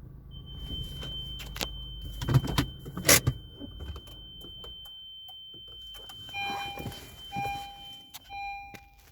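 A steady high electronic tone with several knocks and rattles over it, then, from about six seconds in, an electronic beep repeating roughly once a second.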